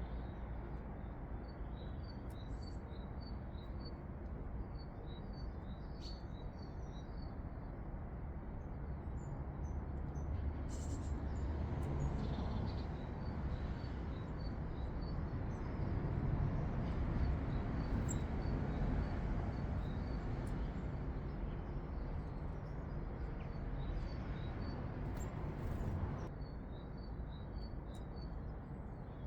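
Small garden birds calling in runs of short, high, evenly repeated chirps, over a steady low outdoor rumble that swells in the middle. A few brief sharp clicks come through now and then.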